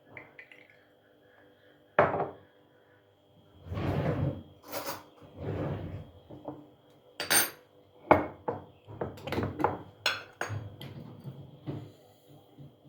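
Dishes and cutlery clinking and clattering as they are handled, with a sharp clink about two seconds in and a quick run of clinks in the second half.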